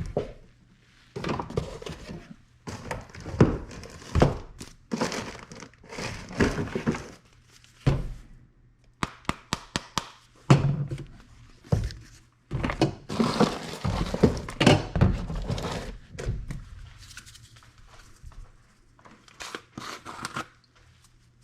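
Irregular thuds and knocks mixed with bursts of rustling and crinkling, over a faint steady low hum.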